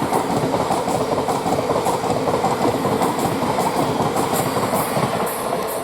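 Thameslink Class 700 electric multiple unit running past, a loud steady rumble of wheels on rail with faint clicks over the track.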